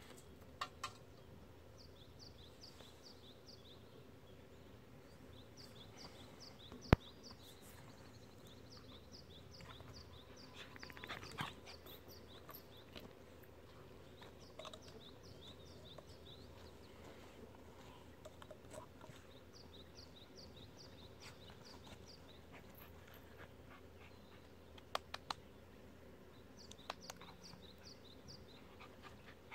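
Faint outdoor ambience with a small bird singing repeated phrases of short high chirps, about five a second, every few seconds. A single sharp click comes about seven seconds in, and a few softer clicks come near the end.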